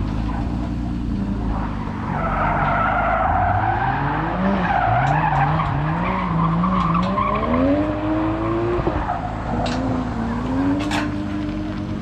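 Drift car sliding with its tires squealing, its engine revving up and down repeatedly as the throttle is worked. The squeal fades out a little past the middle, while the engine keeps climbing in revs.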